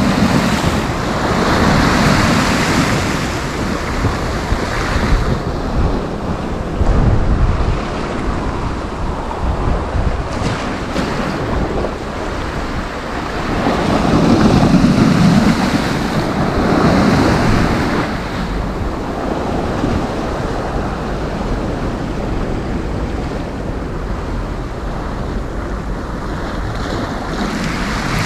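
Sea waves breaking and washing up the beach, the surf rising and falling in slow surges every few seconds, with wind rumbling on the microphone.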